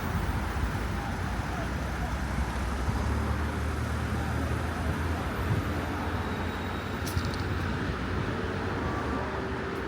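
Road traffic noise: a steady rumble of vehicles, heavier for a few seconds in the middle.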